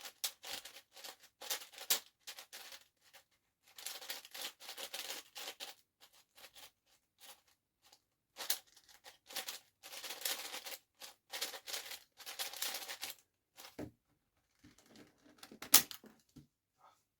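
Plastic speedcube being turned quickly, its layers clicking and clattering in bursts of rapid turns with short pauses. One sharp, louder click comes near the end.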